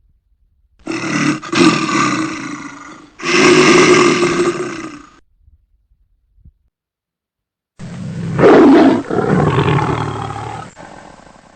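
A large animal roaring in three long bouts, the first two back to back and the third after a pause of about two and a half seconds, each fading away at its end.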